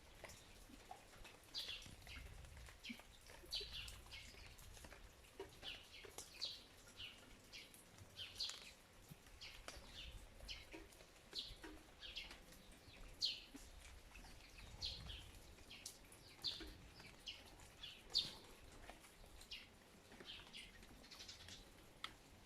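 A bird chirping repeatedly in short, high, falling notes, often in quick pairs, about one a second, heard faintly.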